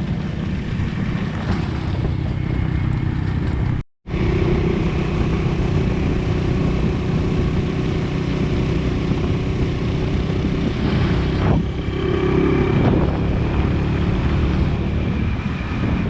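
Motorcycle engine running steadily while riding, with wind buffeting the microphone; the sound cuts out completely for a split second about four seconds in.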